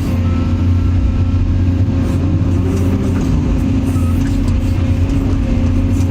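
Caterpillar 336EL hydraulic excavator's diesel engine running steadily under load while digging, a loud low drone with a faint high whine coming and going.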